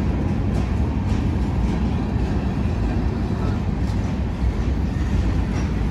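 Freight train cars rolling past: a steady low rumble of steel wheels on rail, with light clicks now and then.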